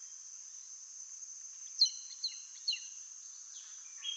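Steady high-pitched drone of insects, likely crickets, with a bird giving three quick downward-sliding chirped notes about two seconds in, and another short note near the end.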